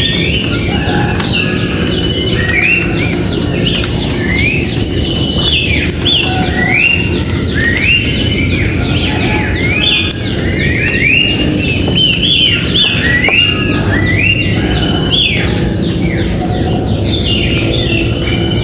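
Wild birds chirping and calling, many short rising notes repeated over and over, over a steady high-pitched hum.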